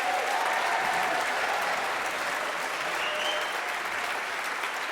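Audience applauding, a steady spread of clapping that slowly fades a little toward the end.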